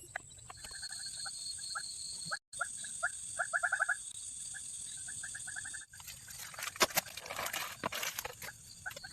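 Animal calls: short notes at one pitch, repeated in quick runs over a steady high hiss, ending abruptly about six seconds in; scattered clicks and crackles follow.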